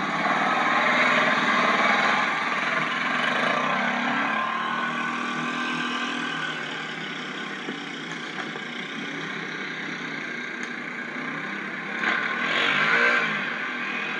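Off-road vehicle engine running hard, loudest in the first few seconds and then fading, with a short rev about twelve seconds in.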